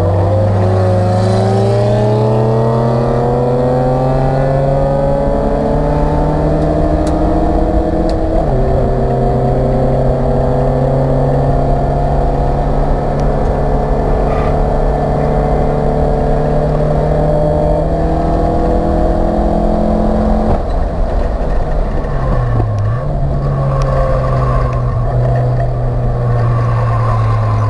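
Acura Integra race car's four-cylinder engine heard from inside the stripped cabin, revving up under hard acceleration. Its pitch climbs, drops suddenly at an upshift about eight seconds in, climbs again and drops once more about twenty seconds in, with a brief dip soon after before holding steady.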